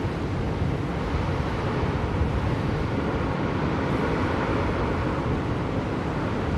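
Steady blizzard wind rushing, with a gust swelling about halfway through.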